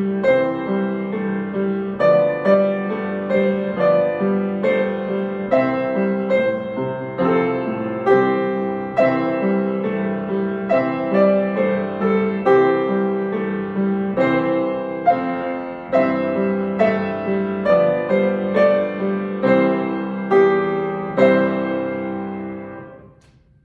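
Solo piano played at a steady, moderate pulse, a melody over a held low note; near the end the playing stops and the last notes die away.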